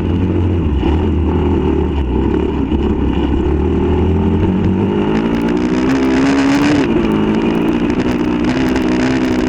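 Pit bike engine running, its pitch climbing for a couple of seconds past the middle, then dropping suddenly and settling.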